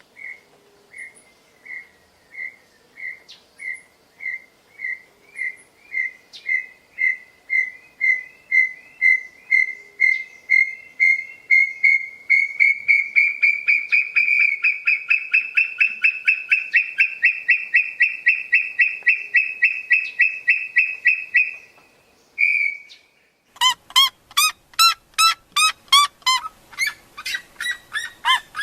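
Bird song: a series of whistled notes that starts slow, then speeds up and grows louder into a fast trill lasting several seconds. After a short break, a different bird gives loud, harsh calls repeated about five times a second.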